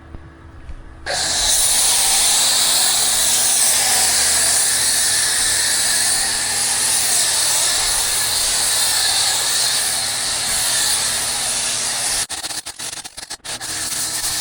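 Pressure washer spraying foam: a loud, steady hiss that starts about a second in and briefly cuts in and out near the end before running on.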